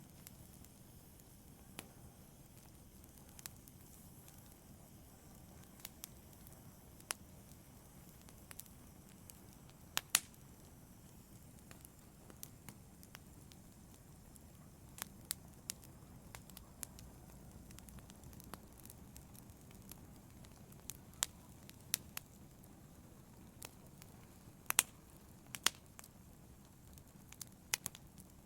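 Wood fire crackling in a fireplace: a low steady hiss broken by sharp, irregular pops and snaps, a few louder ones about ten seconds in and near the end.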